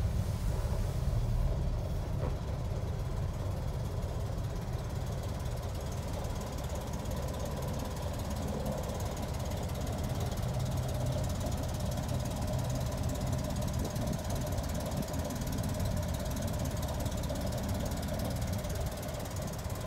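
1962 Chevrolet Corvair van's air-cooled flat-six engine running steadily with a low, even rumble.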